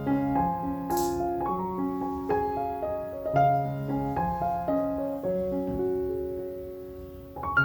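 Background piano music: a gentle melody of single notes over slow held chords.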